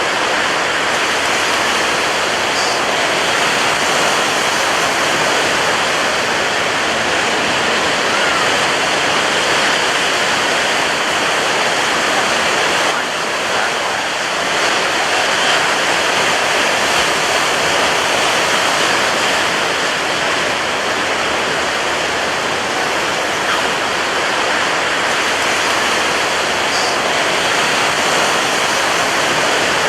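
Heavy ocean surf breaking on a beach: a dense, steady wash of crashing waves with little let-up between them.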